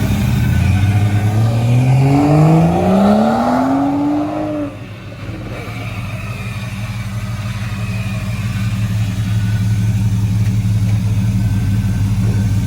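Rebuilt 6.0-litre LS V8 in a Chevrolet Monte Carlo SS revved once, its pitch climbing steadily for about four seconds. The throttle is then released, the revs drop suddenly, and the engine settles back to a steady idle.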